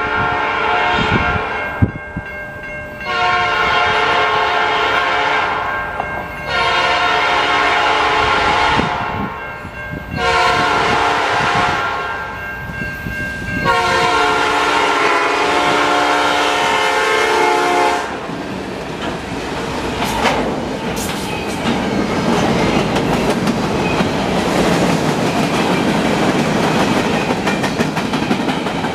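Diesel-electric freight locomotive horn sounding several long blasts for a grade crossing, the last held longest, as the train approaches. Then the lead locomotives, an EMD SD40-2 and a GE C44-9W, go by, followed by the steady rumble and clickety-clack of freight car wheels.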